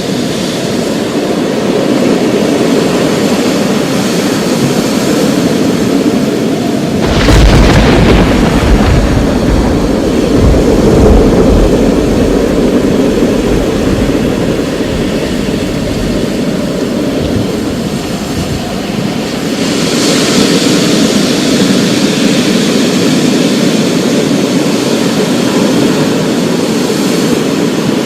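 Thunderstorm: a steady wash of rain, with a thunderclap about a quarter of the way in that breaks suddenly and rolls on as a deep rumble for about five seconds. Around two-thirds of the way in the rain grows brighter and hissier.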